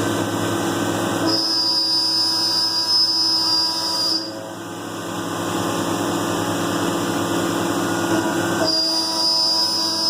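CNC milling machine running a cut, its spindle turning and coolant flowing, with a steady hum. A high-pitched whine comes in about a second in and lasts about three seconds, then returns near the end.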